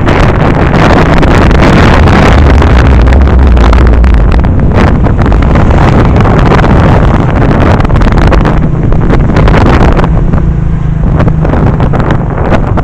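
Heavy wind buffeting on the microphone over a steady low engine drone from a moving vehicle, its pitch shifting upward about two thirds of the way through.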